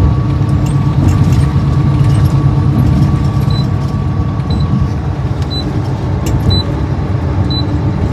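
Car driving at highway speed, heard from inside the cabin: a steady low rumble of road and engine noise. From about halfway, a short high tick sounds about once a second.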